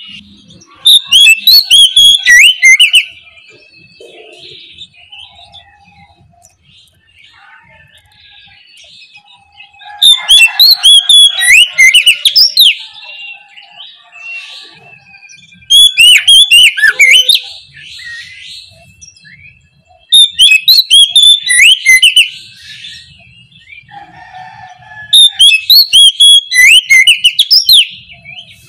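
Oriental magpie-robin (kacer) singing in full-voiced 'ngeplong' style. It gives five loud bursts of rapid whistled notes, each about two to three seconds long, with softer scattered chirps in the gaps.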